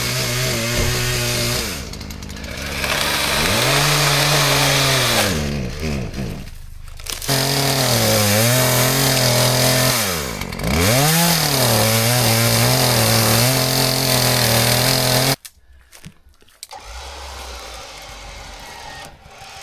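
Chainsaw running and cutting trees, its pitch dipping several times as it bogs down under load in the wood and then picking up again. It cuts off suddenly near the end, leaving only a much quieter background.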